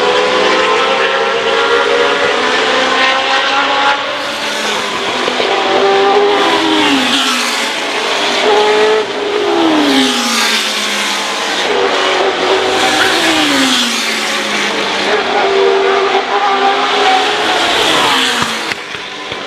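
Historic racing cars running at full racing speed, several engines overlapping. The pitch drops sharply several times as cars go by.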